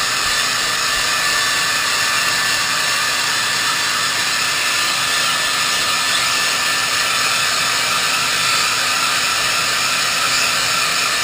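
Hair dryer blowing steadily at a constant level, a continuous rushing noise with a faint whine from its motor.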